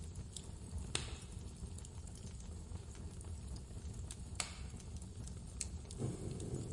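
Wood fire crackling, with sharp pops about a second in and again past the middle, and a duller thud near the end, over a steady low rumble of blizzard wind.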